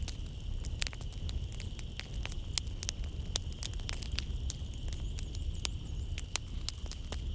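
Wood fire crackling in a fireplace: many irregular sharp pops and snaps over a low rumble, with a steady high chirring of night insects behind.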